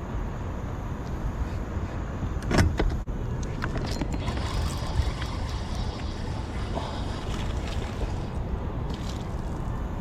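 Steady low rumble, with a single sharp knock about two and a half seconds in.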